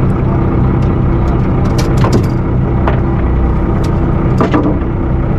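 A steady engine hum with several low tones, and a few scattered short knocks and clicks, the clearest about two seconds in and again near four and a half seconds.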